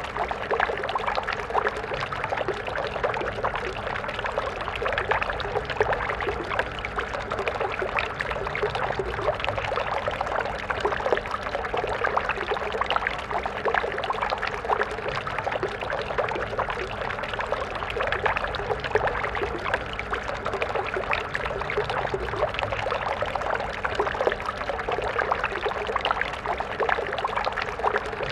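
Stream water flowing steadily, a continuous splashing burble over stones without pause.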